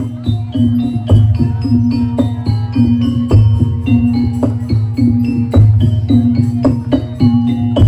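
Jaranan (kuda lumping) accompaniment music: struck pitched notes in a repeating pattern over a steady drum beat and a deep bass.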